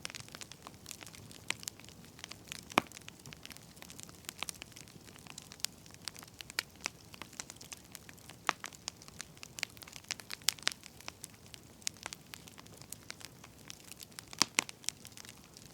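Wood fire crackling, with irregular sharp pops and snaps over a faint hiss; the loudest pops come about three seconds in and near the end.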